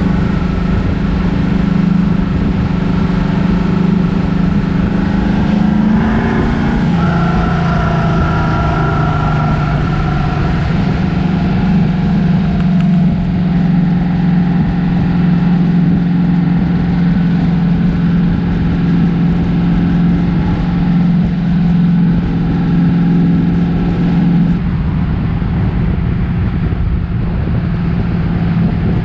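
Car engine running steadily with a low drone. About six seconds in its pitch briefly rises, then settles a little lower.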